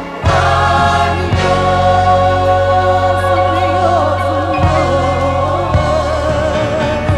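Gospel choir singing with band accompaniment, voices holding long notes with a wavering vibrato over a steady deep bass line.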